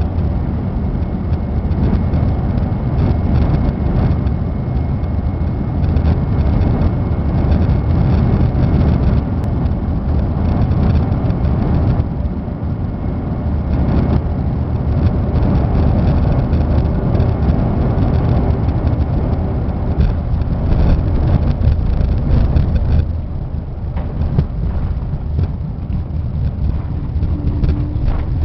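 Steady low roar of an airliner's engines and rushing air, heard from inside the passenger cabin during landing. It eases slightly near the end.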